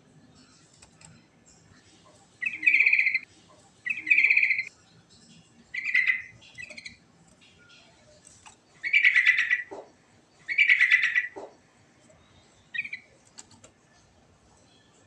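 Yellow-vented bulbul (trucukan) singing: a series of short, loud, bubbling phrases, about seven of them, spaced a second or two apart.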